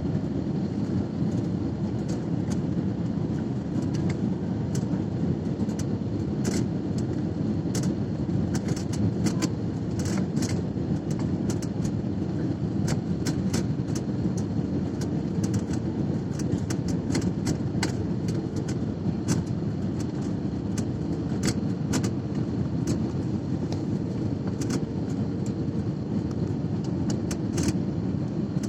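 Steady low rumble of an Airbus A320-family airliner heard from inside the cabin, with frequent light rattles and clicks from cabin fittings and a faint steady hum.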